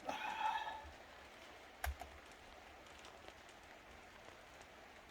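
A single sharp click of a hand working at a laptop's screen assembly about two seconds in, after a brief squeak-like tone at the start, over a steady low hiss.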